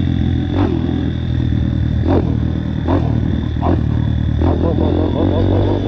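Dirt bike engine running steadily while being ridden, with short sweeps of noise every second or so.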